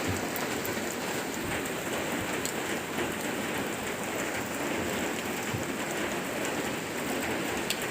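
Rain falling steadily as an even hiss, with scattered sharper drop hits.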